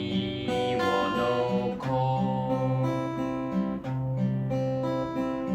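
Acoustic guitar fingerpicked in a waltz arpeggio, three beats to the bar, with a voice singing a line of the song about two seconds in.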